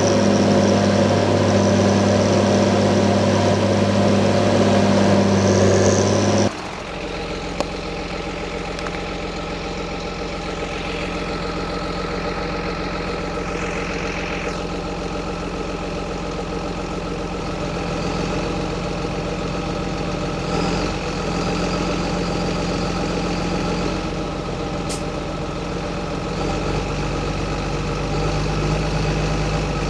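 John Deere 7920 tractor's 8.1-litre six-cylinder diesel engine running loud and steady. About six and a half seconds in, the sound drops suddenly to a quieter steady run, which carries on to the end.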